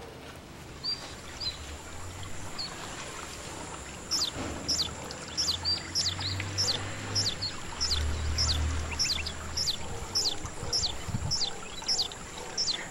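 A bird calling over and over outdoors: short, high, falling chirps about two a second, starting about four seconds in, with a faint steady high tone behind.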